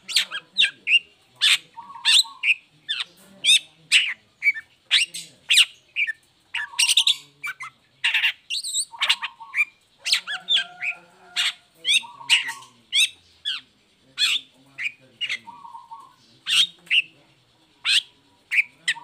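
Long-tailed shrike (cendet) singing a fast, unbroken run of short, sharp notes, roughly two a second, with some lower notes mixed in.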